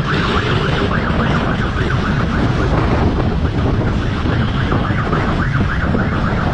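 An electronic siren warbling in fast, repeating rising sweeps, over a heavy rumble of wind and road noise.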